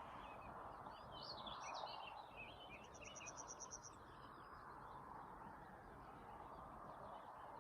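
Faint mixed songbird chorus: several birds sing short chirping phrases, with one quick even trill of about ten high notes a little before the middle. A steady low background rush runs underneath.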